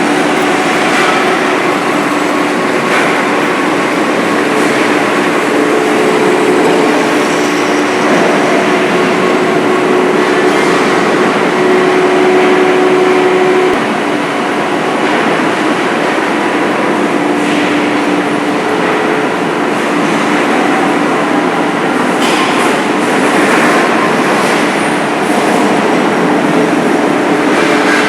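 Manual metal lathe running and cutting a hard metal shaft: a steady machine racket with a humming tone that drops in pitch about halfway through.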